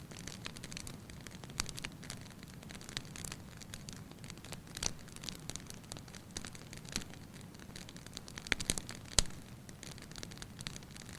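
Wood fire burning in a fireplace: a soft steady hiss with irregular sharp crackles and pops, the loudest pops a little over two seconds before the end.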